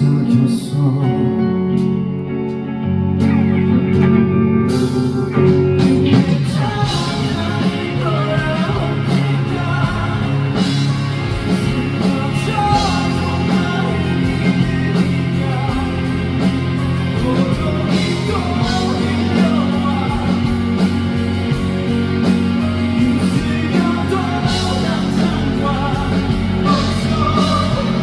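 Live rock band music, guitar-led, in a passage with no sung lyrics; the playing grows fuller, with drum hits, from about five seconds in.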